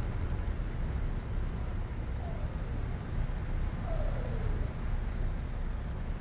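Scania R730's 16.4-litre V8 diesel engine running as the truck drives, a steady low rumble. Two short falling tones sound near the middle.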